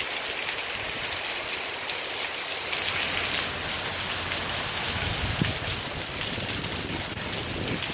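Steady rain falling as a hurricane moves in, with a low rumble of wind that sets in about three seconds in.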